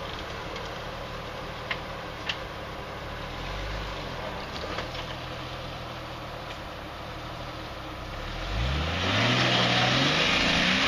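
Jeep Cherokee engine running at low speed as the vehicle crawls over rocks, with two short sharp knocks early on. About three-quarters of the way through, the engine revs up, rising in pitch and getting louder.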